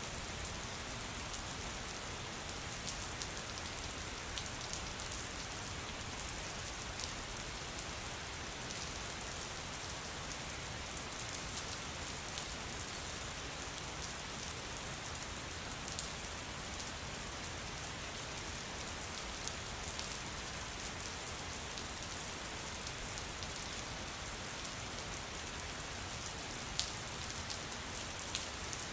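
Steady rain falling, an even hiss with scattered sharper drop ticks and a few louder single drops.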